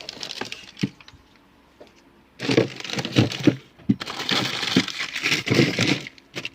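A few sharp clicks, then two long bursts of crackling, crinkling noise.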